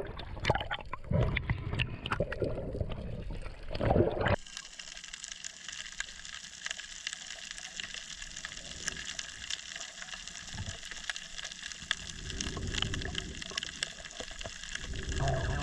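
Water splashing and sloshing at the surface, then about four seconds in the sound cuts abruptly to underwater: a steady hiss with fine crackling clicks.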